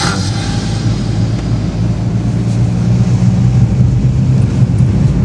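Steady low rumble of a vehicle on the move, with road noise.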